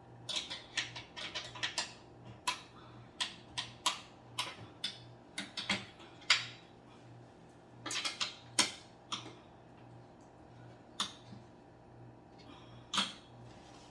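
Irregular sharp clicks and taps of small hard objects, in quick flurries with pauses between, over a faint steady hum.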